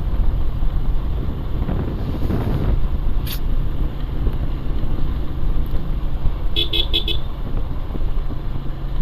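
Motorcycle riding noise: a steady low rumble of engine and wind on a helmet-mounted microphone. A little after six and a half seconds in, a vehicle horn gives four quick beeps.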